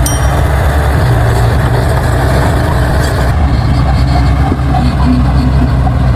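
Crawler bulldozer's diesel engine running steadily at a constant pitch, with a deep hum and a few faint squeaks over it.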